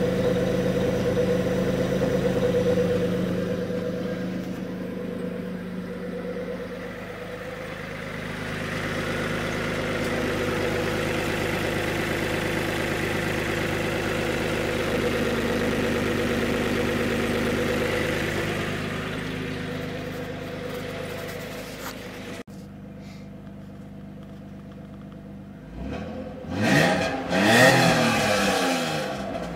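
1997 Isuzu Rodeo's 3.2-litre V6 running through a true dual exhaust with Cherry Bomb Pro mufflers and Magnaflow high-flow cats, a steady, loud exhaust note that swells and eases a little. After a sudden cut, the engine is revved in quick blips near the end, rising and falling in pitch.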